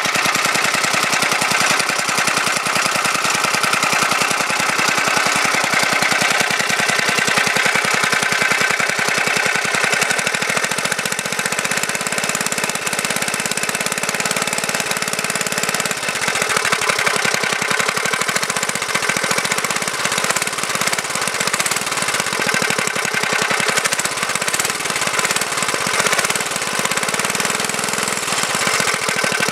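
Tecumseh H50 5 hp single-cylinder flathead engine on a go-kart running steadily, still warming up just after a cold start.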